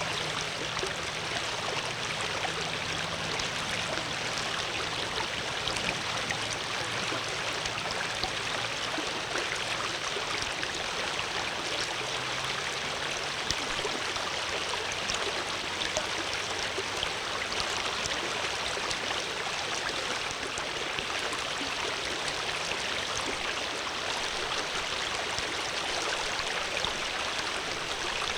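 Flowing water: a stream running steadily, with a continuous babble and small splashes.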